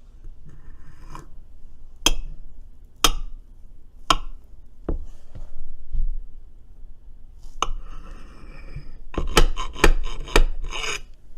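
A utensil cutting a large piece of brownie in its baking pan: several sharp taps as it hits the pan, then scraping and rasping along the pan with a quick run of knocks near the end.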